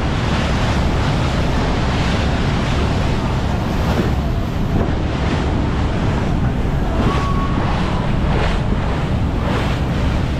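Wind buffeting the microphone over the steady rush of water past a motorboat under way.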